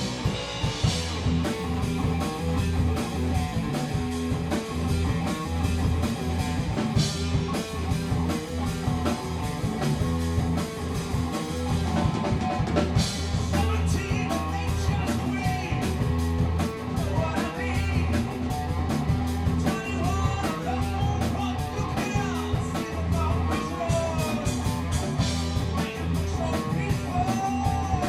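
Rock band playing live in rehearsal: electric guitar, bass and drum kit, with a steady bass line under even drum beats. About halfway through, a melody line with bending notes comes in over the band.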